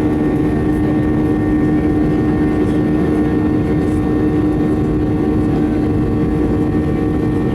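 Boeing 737 jet engines running at high power, heard from inside the cabin as a loud, steady roar with a constant droning hum.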